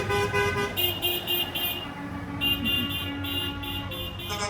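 Truck horns honking in quick repeated short toots over the low rumble of passing truck engines.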